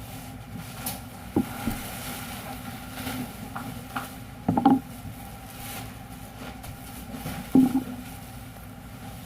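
A machine running with a steady hum and a few steady tones, with sharp mechanical clunks about every three seconds, three in all.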